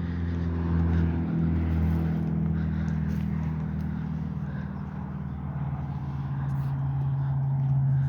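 A motor vehicle's engine running with a steady low drone, its pitch shifting slightly near the end.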